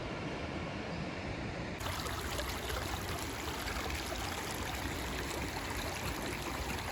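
Steady rush of flowing stream water. About two seconds in, it abruptly turns brighter and hissier.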